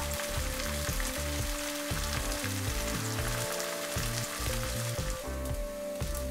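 Banana-peel strips coated in a garlic, paprika and soy-sauce paste sizzling and crackling in hot oil in a frying pan; the sizzle grows softer about five seconds in. Background music with held low notes plays underneath.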